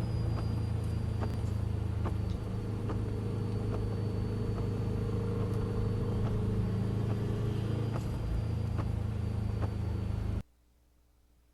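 Car engine running at a steady drone with a thin high whine above it and scattered light ticks. The sound cuts off suddenly about ten seconds in.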